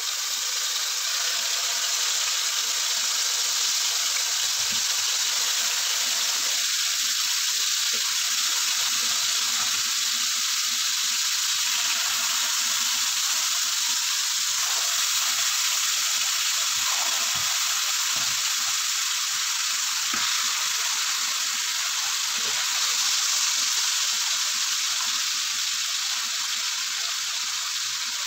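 Chicken pieces sizzling steadily in hot oil in a frying pan as more pieces are laid in.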